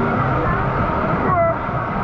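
Inflatable tube sliding down a water slide flume on rushing water, with a continuous loud rush and a falling squeal near the end.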